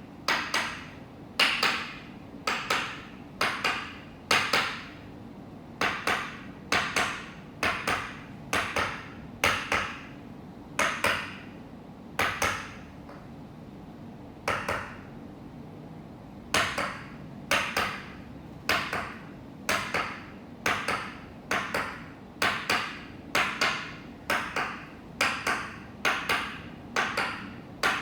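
Small wooden mallet striking a wooden peg in Toksen massage, tapping steadily, mostly in quick double taps, with a brief pause a little past halfway.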